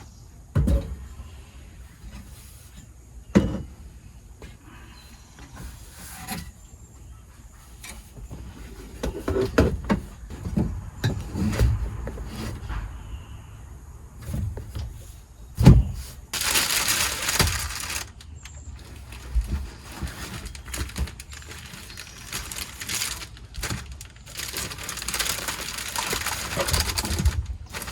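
A series of irregular knocks and thumps, with the two loudest about three seconds in and near the middle. Two longer stretches of rustling come in the second half.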